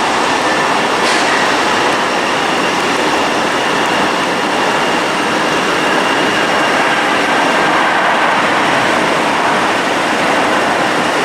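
Jet airliner engines passing close by: a loud, steady rush of noise with a faint high whine running through it.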